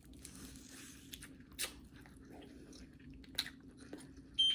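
Biting and chewing into sauce-coated fried chicken, with a few scattered crisp crunches of the breading. A high steady electronic tone starts near the end.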